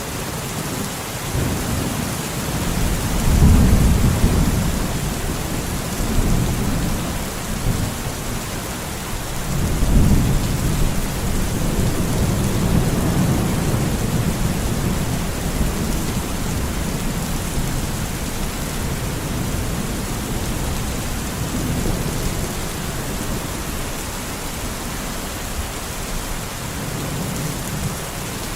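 Steady rain falling, with low rolls of thunder that swell up about three seconds in and again about ten seconds in, then die away into the rain.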